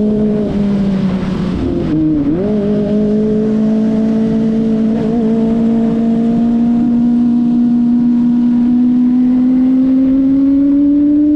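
Kawasaki Ninja ZX-25RR's 249 cc inline-four engine running while riding. The revs dip briefly and recover about two seconds in, then climb slowly and steadily.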